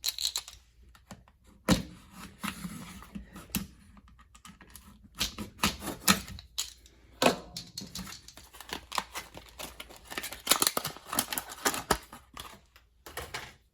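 Handling noise of a hand tool being turned over and examined: irregular clicks, taps and rustling, with a few sharper knocks.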